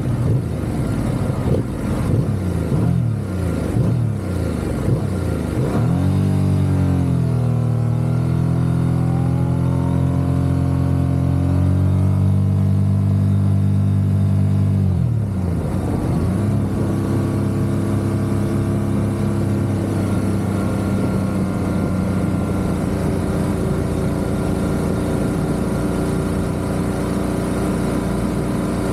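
Motorcycle engine under way: its pitch varies for the first few seconds, rises about six seconds in, and holds steady. About halfway through it drops as the throttle eases off, then settles into steady cruising.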